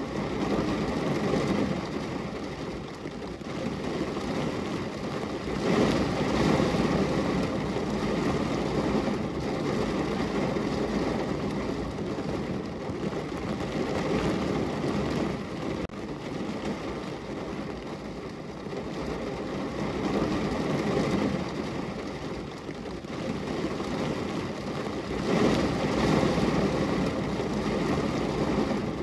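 Rain falling on a window: a steady, deep, rushing hiss that swells louder and eases off every several seconds.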